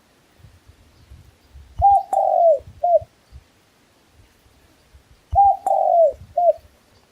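Dove cooing: two three-note coos, each a short note, then a longer falling note, then a short note, about three and a half seconds apart.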